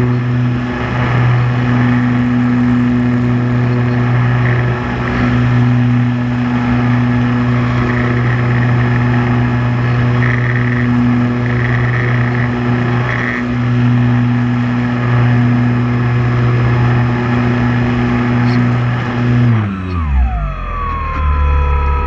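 Multirotor drone's motors and propellers giving a steady, even hum in flight. Near the end the pitch slides down as the motors slow.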